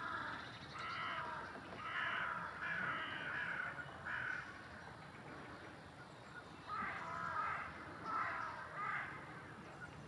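Bird calls in two bouts: about five or six short calls, a pause of about two seconds, then three or four more.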